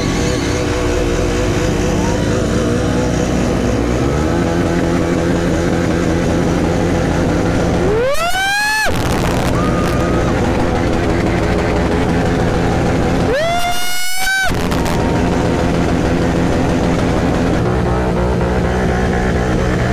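Motorcycle engine revved hard twice, each rev sweeping steeply up in pitch and cutting off, over a steady din of running engines.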